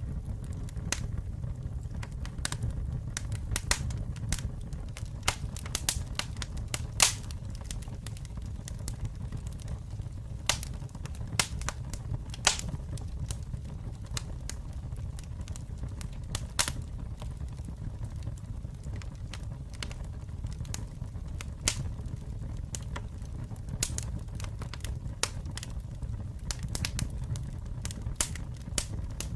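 Campfire burning: irregular sharp crackles and pops from the burning wood, scattered unevenly with a louder pop about seven seconds in, over a steady low rumble of the flames.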